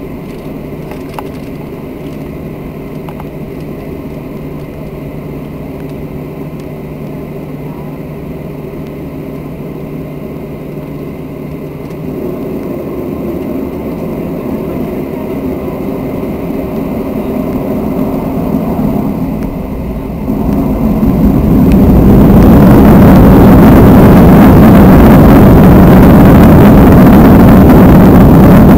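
Jet airliner engines humming steadily at low power, growing louder from about twelve seconds in, then spooling up about twenty-one seconds in to a loud, steady roar at takeoff thrust.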